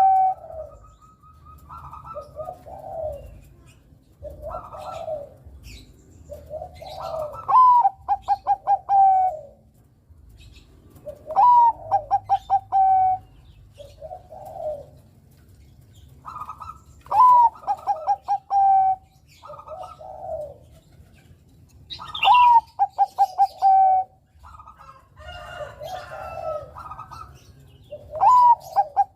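Zebra dove (perkutut) of the Bangkok strain cooing. A song phrase of a quick rising note, a rapid stuttering run and a long held coo repeats about every five seconds, with softer, lower coos between.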